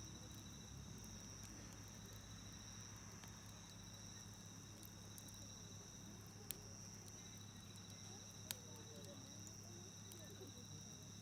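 Faint steady high trill of insects, with a wood campfire giving two sharp pops, about six and a half and eight and a half seconds in.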